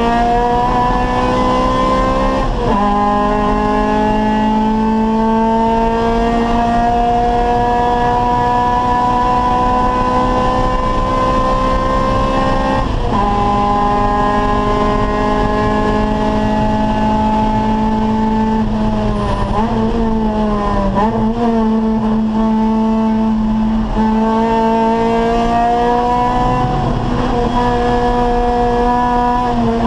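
Acura Integra Type R race car's four-cylinder VTEC engine at full throttle, its note climbing steadily and dropping sharply at upshifts about 2.5 s and 13 s in. Past the middle the revs fall with quick blips as the driver brakes and downshifts for a corner, then the note climbs again under power.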